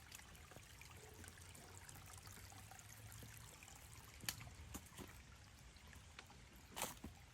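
Faint, steady rush of running water, with a sharp click about four seconds in and a louder brief scuff near the end.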